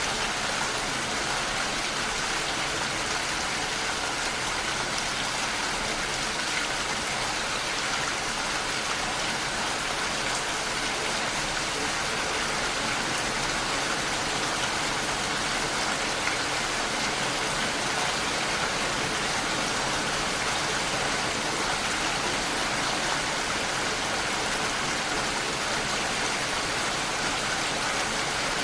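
Steady rain pattering against a window pane, an even hiss of drops with no let-up.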